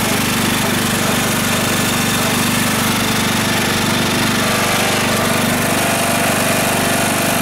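Riding lawn mower's engine running steadily, just started while still wet from pressure washing.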